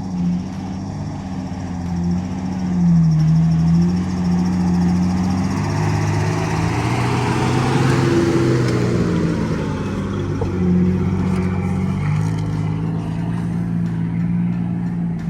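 Off-road 4WD engine running under load on a dirt track climb, its pitch rising and falling as the throttle is worked, with a broad rush of noise swelling and fading in the middle.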